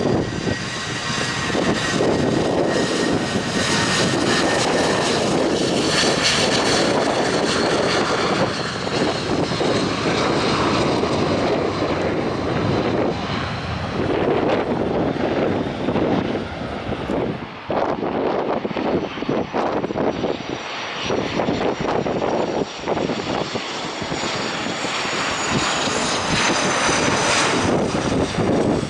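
Jet noise from a British Aerospace Avro RJ85's four turbofan engines, loud and steady, with a high whine that falls in pitch near the end.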